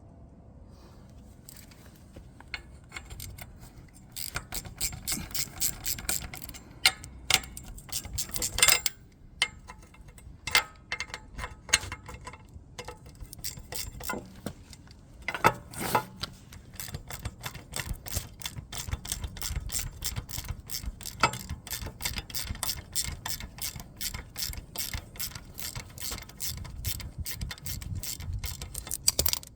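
Hand ratchet wrench clicking rapidly as bolts are turned, in runs of fast, even clicks with a short pause partway through and a few louder clicks.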